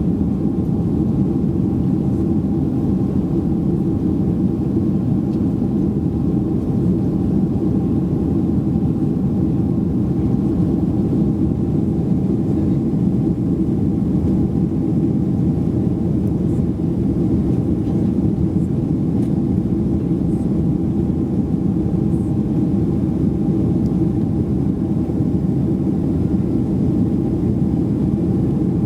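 Steady drone inside the cabin of a Boeing 767-300ER, engine and airflow noise heavy in the low end with a faint steady whine above it.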